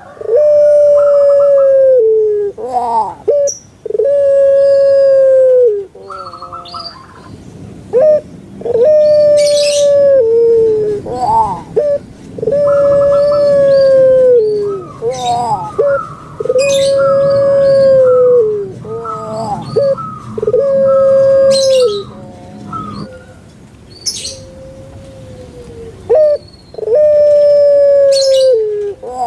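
Puter pelung dove cooing again and again: long, loud, round held coos of about two seconds each, every one ending in a falling note. Short high chirps from small birds come in between.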